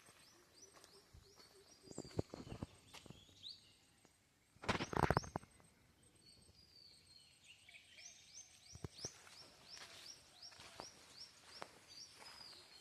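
A bird singing runs of short, quickly repeated rising notes, about three a second, near the start and again through the second half. Footsteps knock a few times, and a loud rustle lasting about half a second comes roughly five seconds in.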